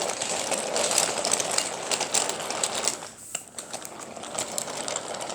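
Wooden toy train running along wooden track, its wheels making a rapid clicking rattle over the rails. The rattle is louder for the first few seconds, then fades as the train moves away.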